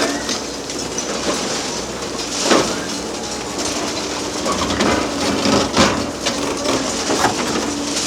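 Hydraulic excavator working a demolition shear on bridge concrete. The engine and hydraulics run with a steady hum, broken by irregular cracks and crunches of concrete breaking and rubble falling; the loudest come about two and a half and six seconds in.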